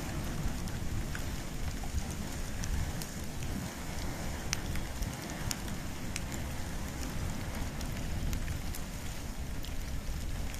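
Campfire of wood and bamboo burning: a steady low rumble of flames with scattered sharp crackles and pops.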